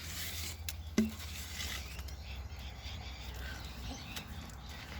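Hens pecking at food scraps: scattered light taps and clicks, a louder tap about a second in, and a few faint chirps, over a steady low rumble.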